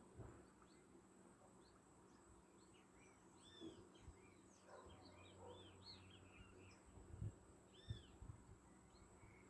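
Faint birdsong: small birds chirping in short, arched notes, several overlapping in the middle, over a steady thin high tone. A few soft low thumps near the end.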